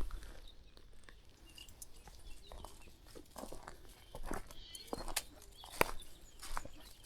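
Footsteps on a country path, irregular soft crunches and scuffs at walking pace, with faint bird chirps behind.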